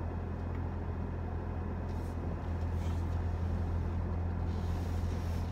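Toyota RAV4 Hybrid's 2.5-litre four-cylinder engine running steadily, heard from inside the cabin as a low, even drone.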